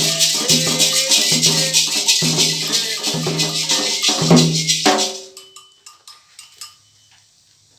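Candomblé ritual music: shaken rattles and percussion with pitched voices or instruments in a steady repeating rhythm. The music stops abruptly about five seconds in, leaving only a few faint clicks.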